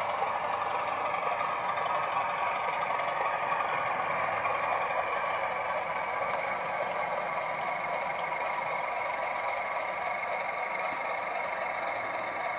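TTS sound decoder in a 00 gauge model BR Class 31 diesel locomotive playing its diesel engine sound through the model's small fitted speaker, running steadily with little bass, a few faint ticks in the middle.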